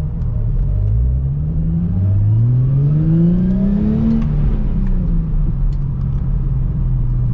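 Car engine revving up, its pitch climbing in two sweeps for about three seconds, then dropping back to a steady low hum.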